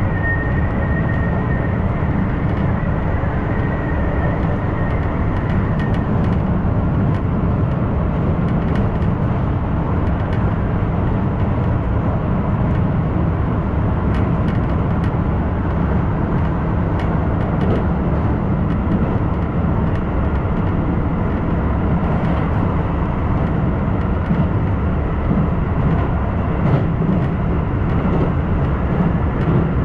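Keisei 3000 series electric train running, heard from inside the carriage: a steady low rumble of wheels on rails, with a faint high whine that fades out about six seconds in.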